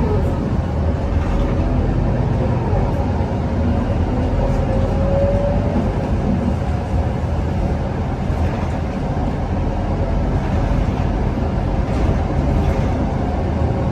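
Scania K230UB city bus heard from inside while driving: steady engine and road rumble, with a whine that rises in pitch between about three and six seconds in as the bus gathers speed.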